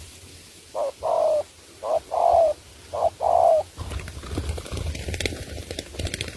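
Spotted dove cooing: three two-part coos about a second apart, each a short note followed by a longer, slightly falling one.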